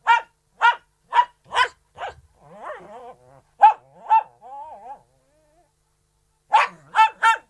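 Poodle barking: a run of short barks about two a second, two wavering whines between them, then a pause and three quick barks near the end.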